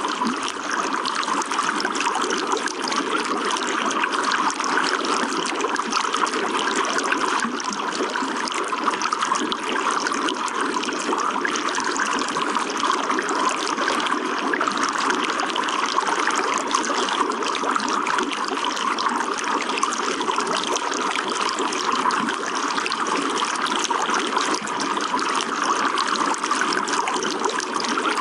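Running water flowing steadily, with no breaks or changes.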